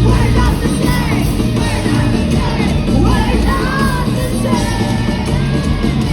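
Live rock band playing loud and full, with a singer's voice over the band.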